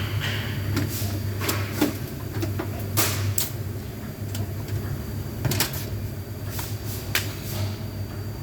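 Irregular sharp clicks and knocks, as of parts of a Scania truck's door and power window mechanism being handled, over a steady low hum.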